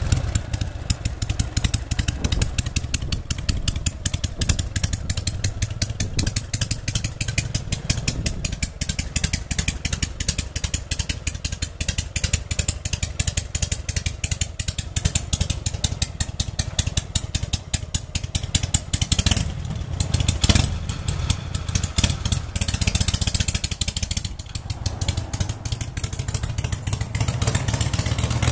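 Harley-Davidson Panhead V-twin motorcycle engine running with a steady, rapid beat of firing pulses, picking up briefly about twenty seconds in and again a few seconds later.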